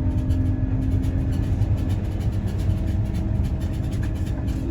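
Scania OmniLink city bus running, heard from inside the passenger cabin: a steady low rumble with a constant drone.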